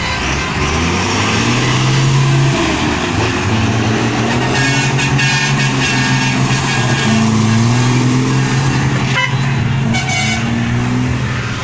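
Heavy trucks' engines running, with horns tooting about halfway through and again near the end.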